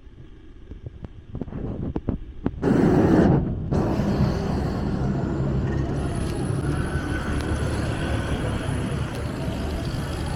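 Urban traffic noise with a vehicle engine running steadily. A loud rush of noise lasting about a second comes about three seconds in, after a quieter start with a few light clicks.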